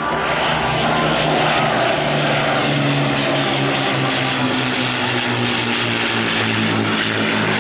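Avro Lancaster's four Rolls-Royce Merlin piston engines droning as the bomber flies past, the pitch slowly falling partway through.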